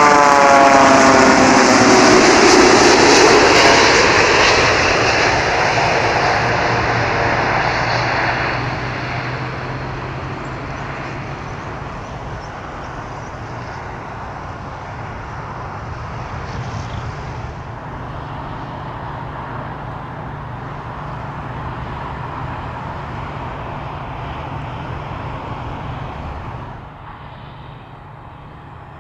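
Boeing 787-8 Dreamliner's jet engines passing close as it comes in to land: a loud falling whine as it goes by. It then fades into a steadier, more distant rumble that drops again near the end.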